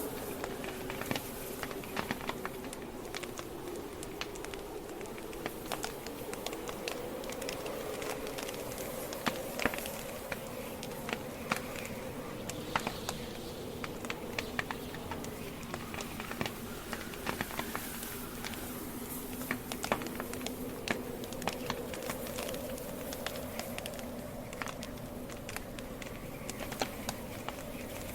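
Campfire logs burning and crackling, with frequent irregular sharp pops and snaps over a steady low hiss of the flames. A faint wavering tone runs underneath.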